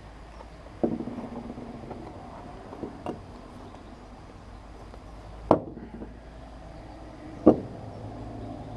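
Four short, sharp knocks spaced a couple of seconds apart over a steady low hum.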